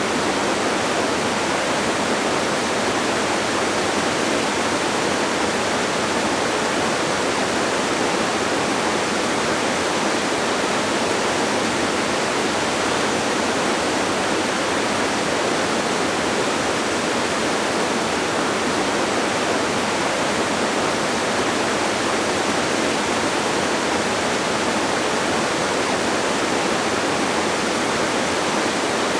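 Steady, unbroken rush of a distant waterfall, an even hiss-like roar of falling water with almost no deep rumble.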